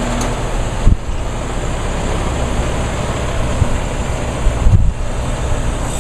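Wind buffeting the microphone over a steady outdoor rumble, with two low thumps, about a second in and near five seconds.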